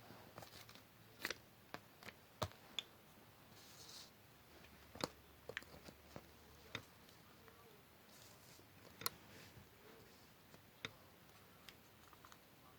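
Scattered light clicks and taps of hand paper-craft work, such as paper and small tools like scissors being handled on a desk, at irregular intervals over quiet room tone.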